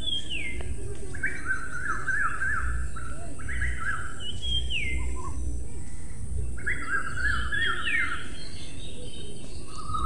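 Birds calling: a clear whistled note falling in pitch, heard three times, alternating with runs of quick, rapidly repeated chattering notes.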